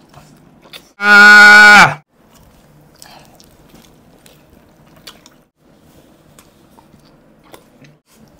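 Chewing and biting into chicken leg pieces: faint wet chewing with a few small clicks. About a second in, a loud, held, voice-like tone sounds for just under a second, dropping in pitch as it ends.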